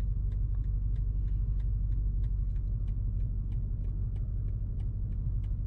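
BMW M5 Competition's twin-turbo V8 idling with a steady low rumble, with a faint, regular light ticking about three or four times a second.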